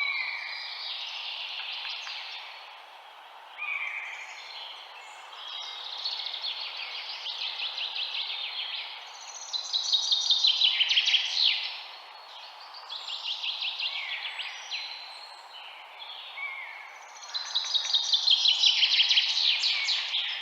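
Birds singing in fast trilled phrases, each a couple of seconds long, over a steady faint hiss; the loudest phrases come about halfway through and near the end.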